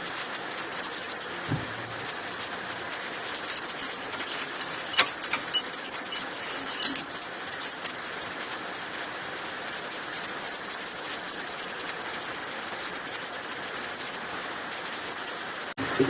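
Steady hiss with a handful of short, sharp clicks and knocks around the middle, such as tools or small engine parts being handled.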